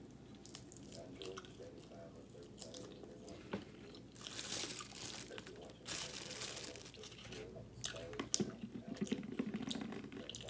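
Fried chicken being bitten and chewed close to the microphone: crisp crunching with small wet mouth clicks. The crunching is loudest in a long stretch past the middle.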